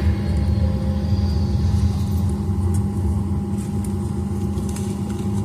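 Steady low hum of an airliner cabin before departure, the air-conditioning and ventilation of a Boeing 737-900ER, with a thin steady tone over it and a few faint ticks.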